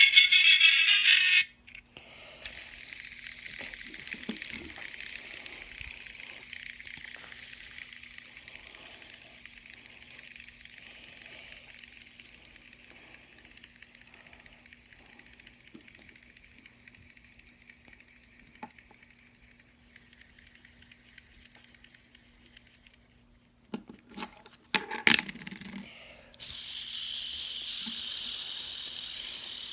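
Fidget spinners whirring on their bearings after being spun by hand. The whir fades slowly over about twenty seconds as they slow down. A louder sound cuts off about a second and a half in and another starts suddenly near the end, with a few sharp clicks of handling just before it.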